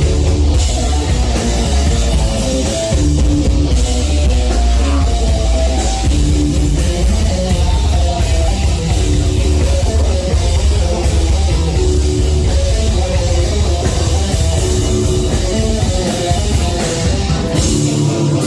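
A heavy metal band playing live and loud: distorted electric guitars over bass and a drum kit. Just before the end the low bass and drums drop out, leaving guitar ringing on.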